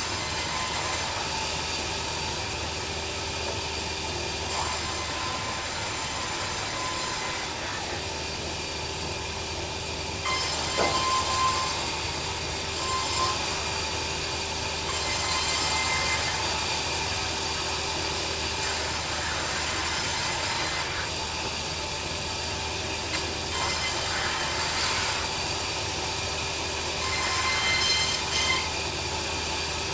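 Bandsaw sawmill running with a steady whine, its blade cutting timber; the high cutting noise comes and goes in stretches of a few seconds.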